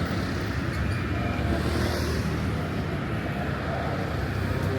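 Steady city road traffic noise, with cars passing and a continuous low engine hum.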